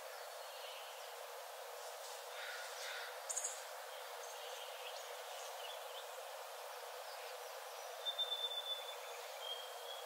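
Forest ambience: a steady soft hiss with scattered bird chirps, a sharp high chirp about three seconds in, and two thin drawn-out whistled bird notes near the end, the second slightly lower than the first.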